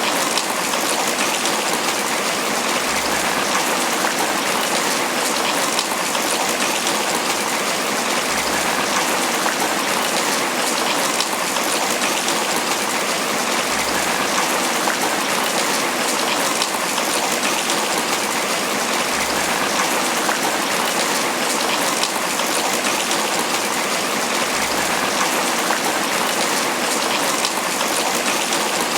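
Steady tropical rain falling on banana leaves, a dense, even sound of drops without a break.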